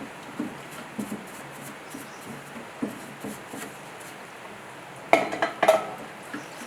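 Metal parts and tools clinking as they are handled, with light scattered taps and then a burst of louder metallic clattering about five seconds in.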